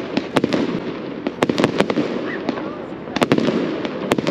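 Fireworks display: an irregular run of sharp bangs and crackling reports going off in quick clusters, over a steady background hubbub.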